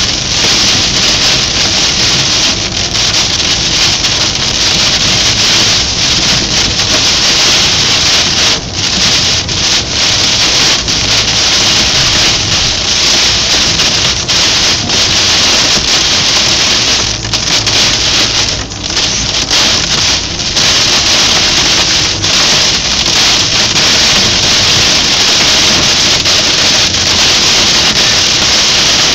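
Heavy rain pelting a car's roof and windscreen, heard from inside the cabin: a loud, dense, steady hiss that dips briefly twice.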